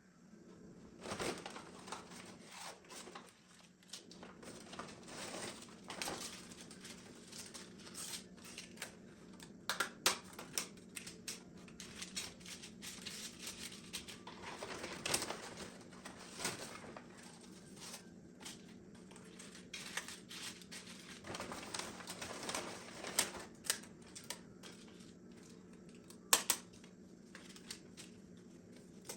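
Kitchen food-preparation handling sounds: irregular rustling and crinkling with scattered sharp clicks and knocks, the sharpest around ten seconds in and near the end, over a steady low hum.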